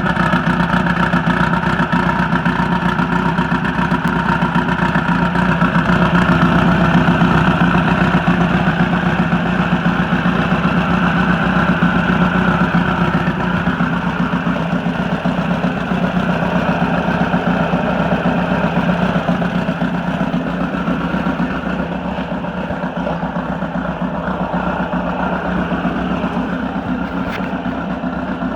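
Turbocharged 2332cc air-cooled VW flat-four (CB wedgeport heads, T4 turbo, FK45 cam) running steadily, easing a little quieter over the last third.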